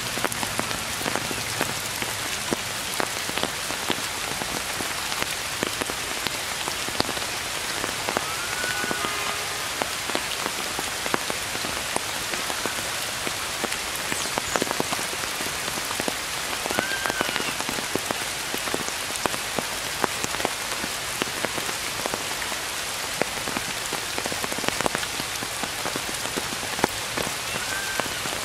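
Steady rain falling on tree foliage, an even hiss full of fine drop taps. Three brief high tones sound faintly above it, about ten seconds apart.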